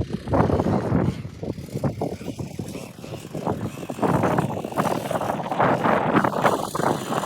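Dirt bike engine revving in uneven surges as the bike climbs a dirt slope, quieter for a second or two then louder again from about four seconds in.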